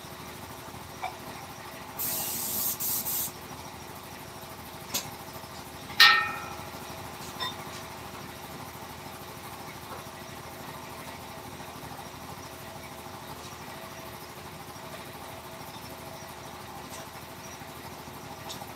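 A few short hissing spray bursts about two seconds in, then one sharp ringing clink of a hard object knocked or set down about six seconds in. After that a steady low hum with a few faint ticks runs on.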